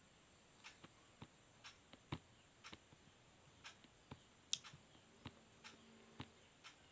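Near silence: quiet room tone with faint, irregularly spaced small clicks.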